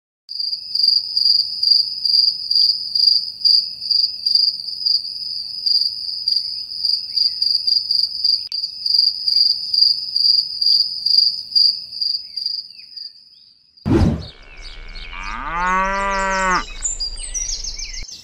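High insect chirping in a steady rapid pulse, then a sharp knock about fourteen seconds in, followed by one long cow moo that rises and falls in pitch.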